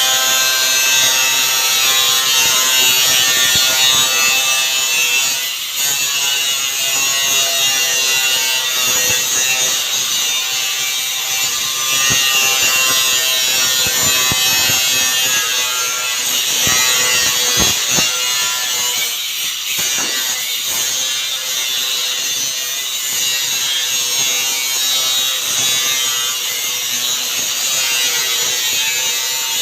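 Power cutting tool running continuously while cutting through stock, a steady whine with hiss that dips briefly a couple of times.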